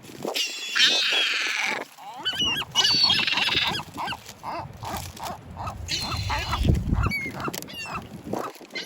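Seabirds calling: three loud, harsh honking calls about a second, three seconds and six seconds in, with a run of short repeated calls between them. A low rumble comes in near seven seconds.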